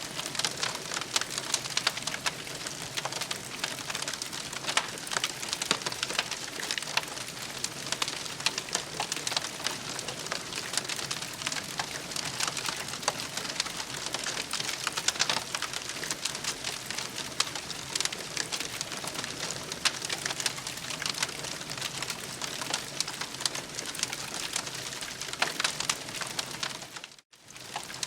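Campfire crackling steadily: a dense run of small pops and snaps over a soft hiss. The sound briefly drops out near the end.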